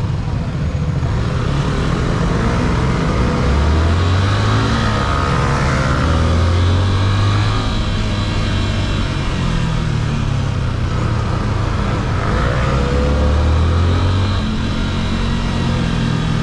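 Yamaha FZ-S 150cc single-cylinder motorcycle engine running under way. It pulls up in pitch several times as the rider accelerates through the gears, and it is loudest around four, seven and thirteen seconds in, over a steady rush of road and wind noise.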